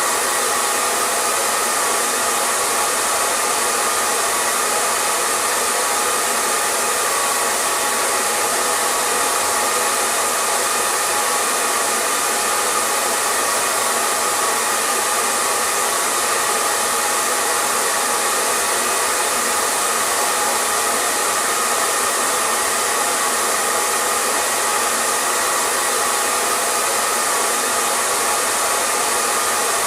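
Hair dryer running continuously at a steady setting: an even airy hiss with a faint motor hum and no change in speed.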